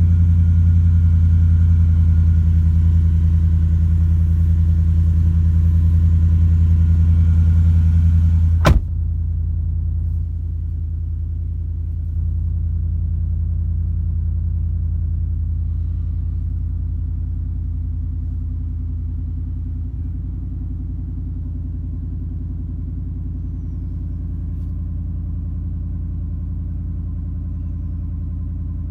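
2019 Ford F-150's 5.0 V8 with an MBRP aftermarket exhaust idling after a cold start: a steady, deep exhaust rumble. About nine seconds in there is one sharp click, after which the rumble is quieter and then eases down a little more.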